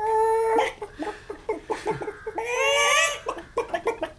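A person doing a vocal chicken impression: two long drawn-out squawks, one at the start and one near three seconds in, with short clucking sounds between and after them.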